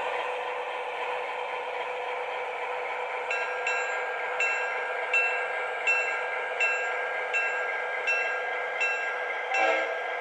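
MTH model diesel locomotive's sound system and running gear: a steady running sound, joined about three seconds in by the locomotive bell ringing steadily, about one strike every three-quarters of a second.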